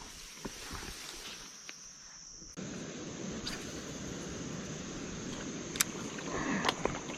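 Outdoor ambience of insects buzzing steadily in a high band. About two and a half seconds in the background abruptly grows louder, and near the end come a few sharp clicks and rustling steps.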